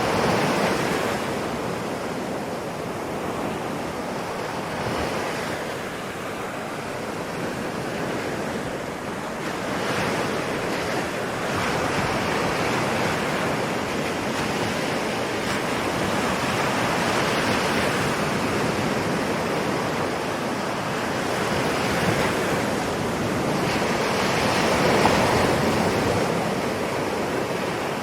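Ocean waves breaking and washing on the shore, a continuous surf that swells and eases every several seconds, with the biggest surges near the start and about 25 seconds in.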